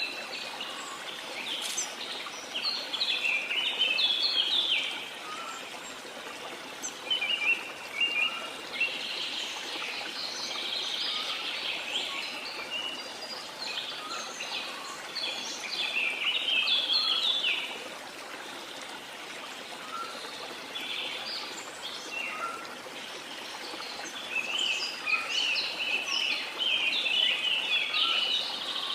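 Rainforest ambience: many birds chirping and calling in bouts of a few seconds, over a steady rush of water.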